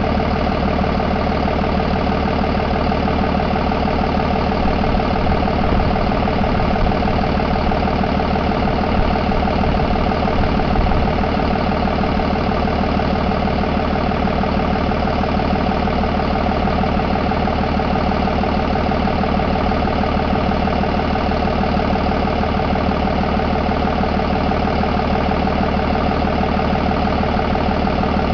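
Cummins B6.7 inline-six turbo-diesel engine idling steadily.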